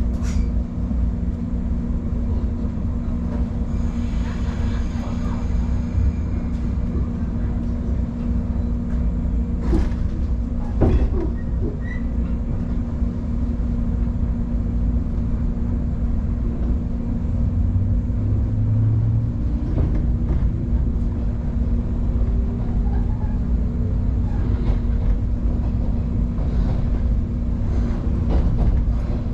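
Electric train heard from on board as it pulls away and picks up speed: a steady low rumble and hum, a few sharp clicks of the wheels over rail joints or points about ten seconds in, and the traction motor's whine rising in pitch later on as it accelerates.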